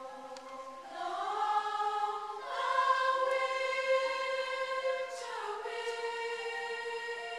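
Chamber choir singing sustained chords in parts. It swells louder about a second in, is loudest in the middle, and eases back after about five seconds.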